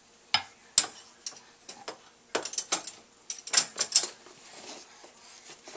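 Dishes and cutlery clinking and clattering as a baby loads a dishwasher: a run of sharp knocks and clinks in the first four seconds, then quieter.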